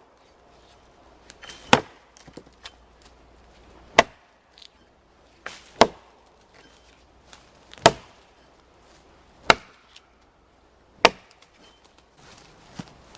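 Axe chopping into a dry dead tree trunk to cut it into lengths, with about six sharp strikes spaced roughly two seconds apart.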